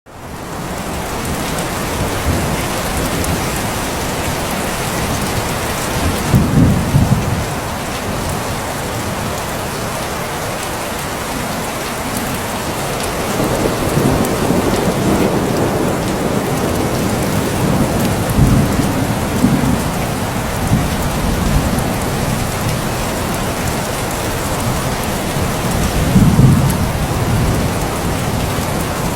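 Steady heavy rainfall hissing on surfaces, with several low rumbles of thunder rising and fading over the rain.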